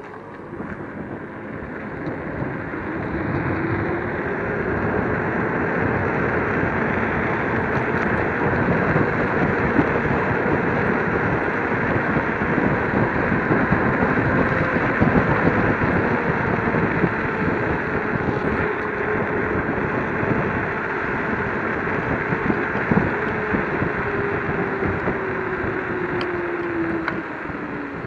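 Wind and road noise from riding an electric scooter at speed, with the motor's faint whine rising as it speeds up in the first few seconds, holding steady, and falling as it slows near the end.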